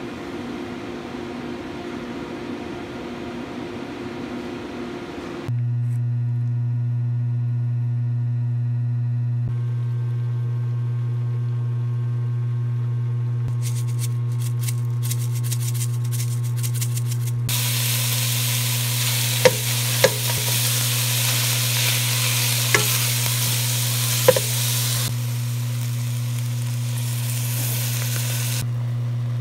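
Meat frying in a pot: a sizzle that comes up strongly partway through, with a few sharp knocks of a spoon against the pot, over a steady low hum. It opens with a few seconds of a softer rushing noise.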